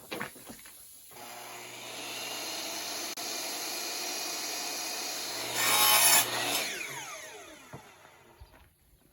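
Electric saw starting up and running steadily, cutting through a pallet board for about a second just past the middle (the loudest part), then switched off and spinning down with a falling whine.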